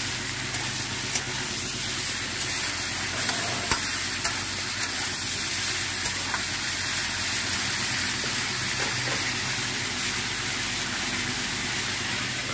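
Chopped vegetables sizzling as they fry in hot oil in a steel kadai, with a metal spatula stirring them and scraping and clicking against the pan now and then.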